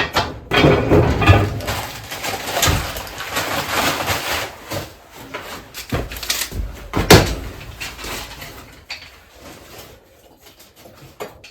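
Creaks, scrapes and knocks of someone working at a wood-burning stove, opening its door and handling wood, with two sharp thumps about six and seven seconds in, then quieter.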